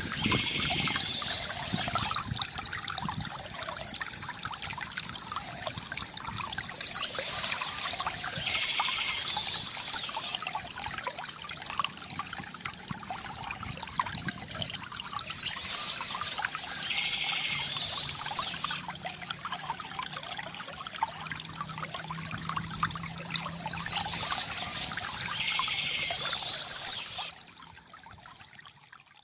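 Small stream trickling and splashing, with a bird singing a phrase about every nine seconds over the water. The sound drops away sharply a couple of seconds before the end.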